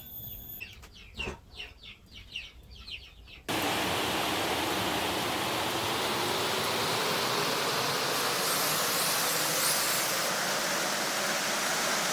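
Birds chirping faintly, then about three and a half seconds in a loud, steady rushing noise starts abruptly and keeps going.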